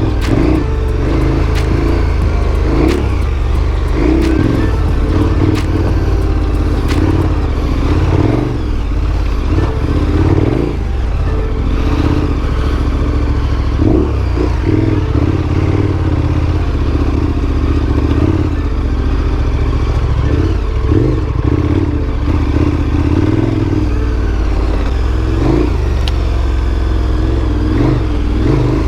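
Big adventure motorcycle's engine running on a rough dirt trail, the throttle rising and falling, with scattered clattering knocks from the bike over the uneven ground.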